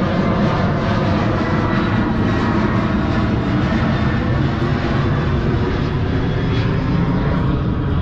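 Boat motor running steadily at a constant speed, a loud, even engine drone with a rushing low end.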